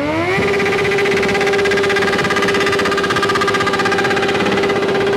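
A superbike engine revved up quickly and held at a steady high rpm for about five seconds, then the revs drop near the end.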